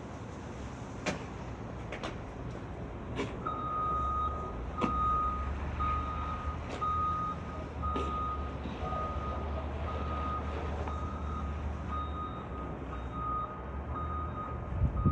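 A vehicle's reversing alarm beeping steadily, about three beeps every two seconds, starting a few seconds in, over the low rumble of an engine. A few sharp knocks are heard in the first half.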